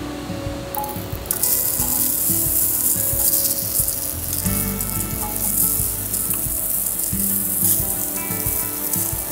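Food sizzling in a hot pan, the hiss coming in sharply about a second in, over background music.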